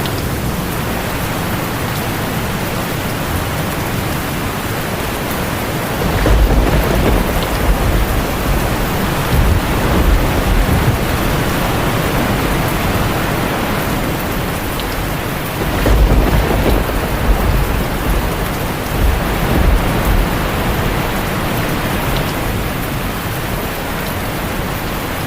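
Heavy rain drumming steadily on a tin roof, with thunder rumbling low twice, about six seconds in and again a little past halfway.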